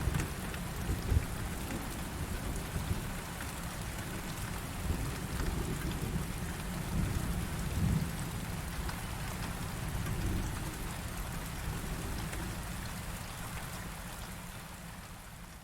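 Heavy rain pouring steadily, with thunder rumbling low underneath and a few sharp spikes of louder rain or thunder. The whole storm fades down over the last couple of seconds.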